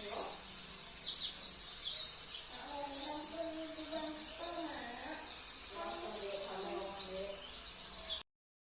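Small songbirds chirping and twittering in quick, high-pitched phrases: a bird-song training (masteran) track for pleci, mixed with fill-in songs of canary, cililin, kapas tembak and jenggot. Lower wavering calls sit beneath the chirps, and the sound cuts off suddenly near the end.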